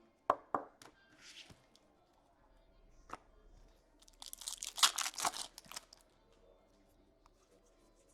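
A foil trading-card pack torn open: a crinkling rip lasting about a second and a half, starting about four seconds in. A few light clicks of cards being handled come before it.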